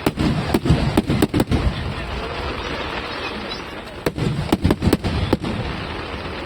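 Aerial fireworks shells bursting in two rapid clusters of sharp bangs, the first right away and the second about four seconds in, over a steady crackle and crowd murmur.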